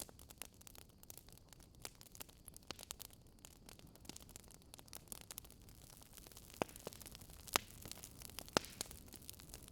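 Wood fire crackling: irregular sharp pops and snaps over a soft hiss, with a few louder pops in the second half.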